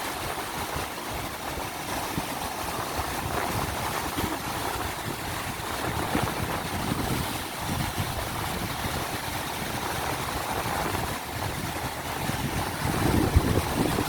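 Ocean surf washing in steadily, with strong wind gusting against the microphone in uneven low surges.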